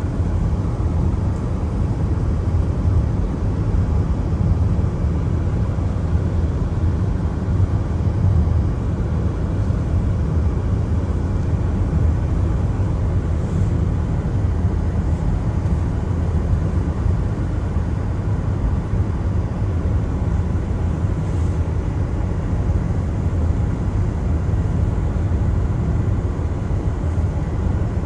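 Car driving on a wet road: a steady low rumble of tyres and engine, with only a faint hiss above it.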